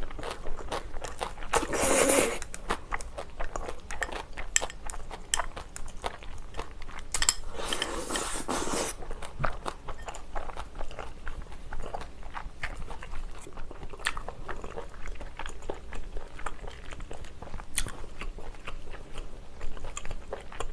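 Close-miked chewing of a mouthful of stir-fried pork tripe and kimchi: moist clicks and crunching, with two louder spells about two seconds and about eight seconds in.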